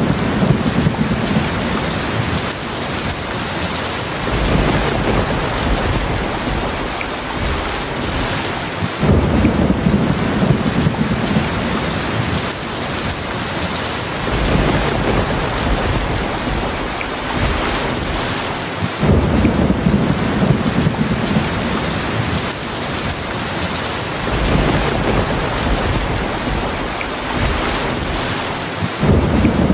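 Heavy rain falling steadily, with low rumbles of thunder that swell in sharply about every ten seconds: near the start, about nine seconds in, about nineteen seconds in and again near the end.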